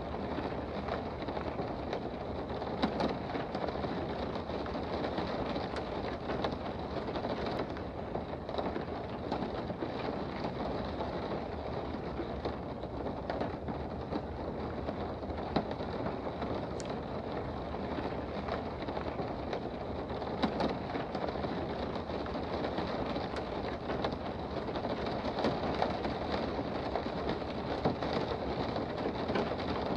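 Steady rain heard from indoors: an even hiss with scattered sharper ticks of single drops.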